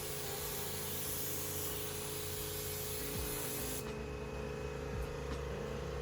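Air-fed paint spray gun hissing as it sprays, with a steady hum underneath. The hiss cuts off sharply about four seconds in as the trigger is released.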